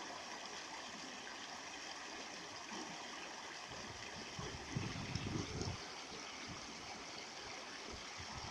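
A river flowing, a steady rushing of water. About halfway through, a brief low rumble rises over it for a second or so.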